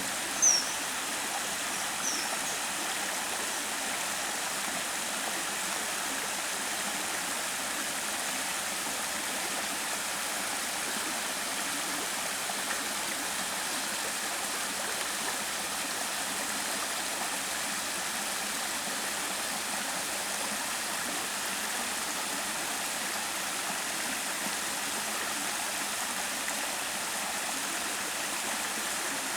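Mountain valley stream, water rushing and splashing steadily over rocks. A few short, high, falling chirps sound in the first couple of seconds.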